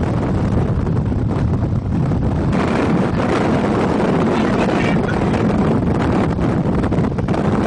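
Strong wind buffeting the microphone over the low rumble of the chase vehicle, growing brighter and louder about two and a half seconds in.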